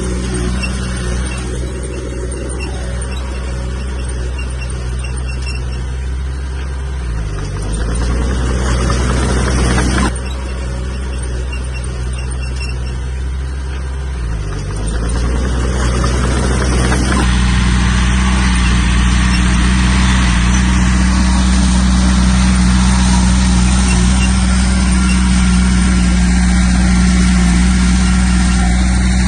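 Heavy diesel earthmoving machinery running steadily. The engine pitch dips and recovers twice as it takes load, and the sound changes abruptly twice, running louder after the second change.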